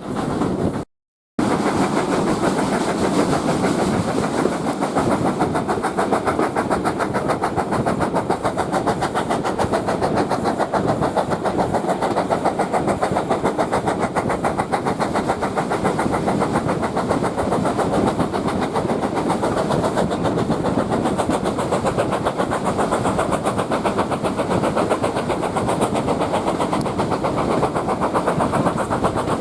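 A train running on the line: a steady, dense mechanical rumble with rapid close-set beats. The sound cuts out completely for a moment about a second in, then carries on as before.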